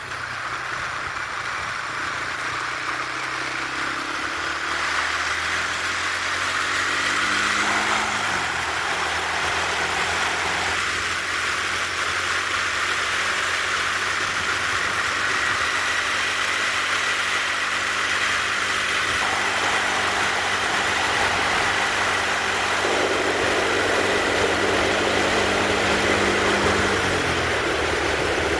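Yamaha TW200's single-cylinder four-stroke engine running under way, rising in pitch over the first several seconds, holding steady, then dropping near the end, over a steady rush of wind noise.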